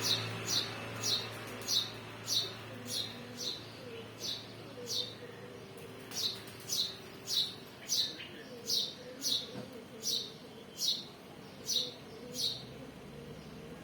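A small bird chirping over and over, one short high note sliding downward, about twice a second.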